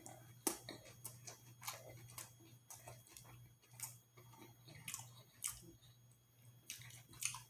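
Close-miked chewing of a fish sandwich: irregular wet mouth smacks and soft crunches. A low steady hum runs underneath.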